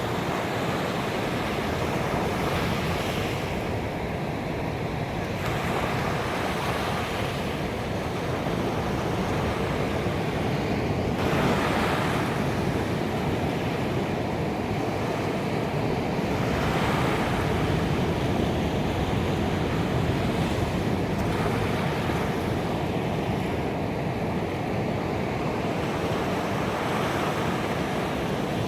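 Ocean waves breaking and washing up a beach: a continuous rushing surf that swells every few seconds as each wave comes in.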